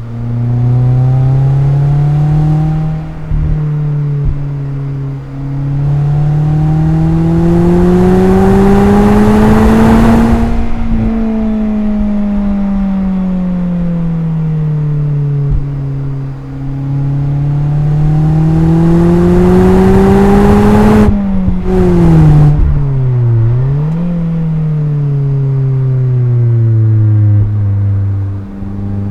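Mazda MX-5's four-cylinder engine and exhaust under hard driving. The engine pitch climbs in long rises and falls back several times, with quick drops and sharp brief rises in revs about two-thirds of the way through.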